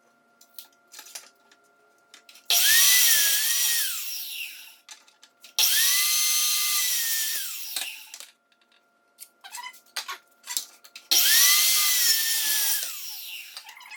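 Electric power saw crosscutting white oak floor boards to length: three cuts of about two seconds each, the motor whine rising as it spins up and falling away after each cut, with light knocks between them.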